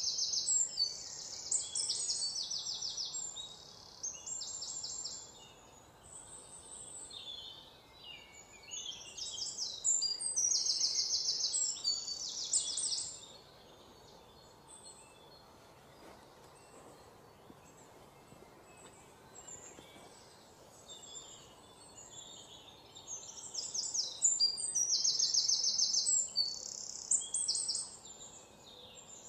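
Birds singing in bouts of rapid, high trills and chirps, with quieter stretches of faint background noise between the bouts.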